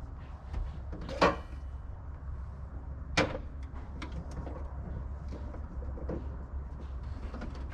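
Two sharp knocks about two seconds apart, the first the louder, over a steady low hum, from hands-on work on a truck.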